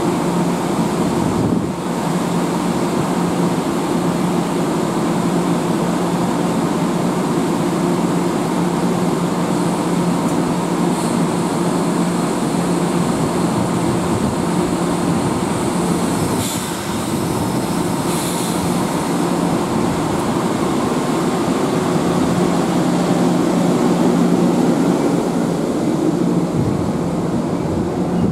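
Train running past at close range: a loud, steady rolling rumble under a steady low hum, with a few faint high squeals around the middle.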